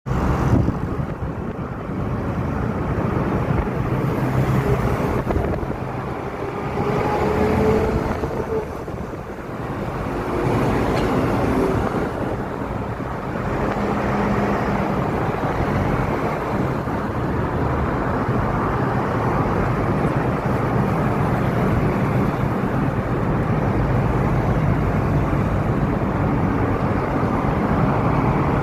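Steady road traffic of heavy trucks moving along a road: a continuous engine and tyre rumble, with a faint engine tone rising slightly a few seconds in.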